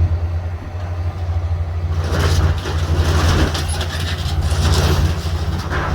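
Diesel engine of heavy demolition equipment running steadily with a deep hum. From about two seconds in, a loud, rough crackling noise joins it.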